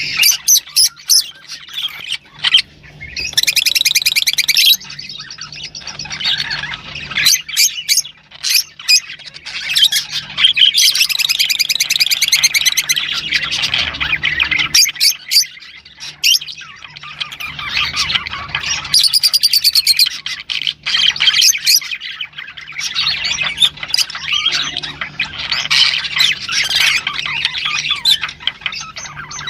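Caged songbird singing long phrases of fast trills and chirps, with short pauses between them: a tutor song played for other caged birds to learn.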